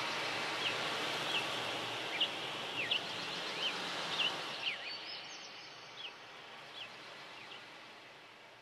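Short bird chirps repeated about once or twice a second, each a quick slide in pitch, over a steady outdoor hiss. The whole sound fades out over the last few seconds.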